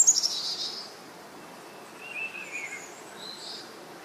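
Birds chirping over a steady background hiss: a high trill sliding down in pitch in the first second, then a few shorter chirps.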